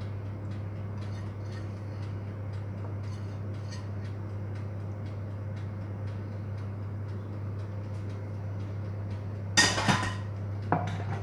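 A steady low hum with faint light ticks, then near the end a brief loud clatter of kitchenware, followed by a smaller clink, as a dish or baking pan is handled.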